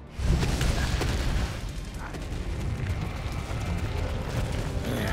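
Cartoon sound effect: a sudden deep boom about a quarter second in, followed by continuous heavy low rumbling, like an eruption or the ground breaking apart.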